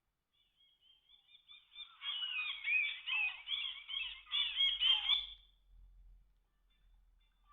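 Sagem SG322i mobile phone's speaker playing a ringtone preview: a busy run of short, quick notes that slide in pitch. The notes start thin, grow fuller about two seconds in, and stop about five and a half seconds in.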